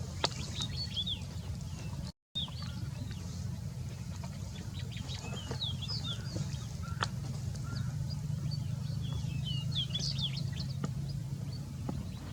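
Many short, high chirps from small birds, coming thick and fast over a steady low rumble; the sound cuts out completely for a moment about two seconds in.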